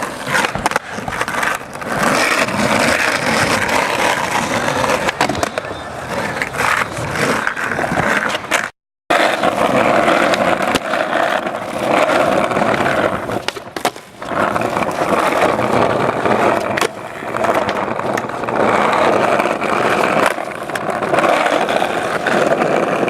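Skateboard wheels rolling hard over pavement, with scattered sharp clacks of the board. The sound drops out for a moment about nine seconds in, then the rolling resumes.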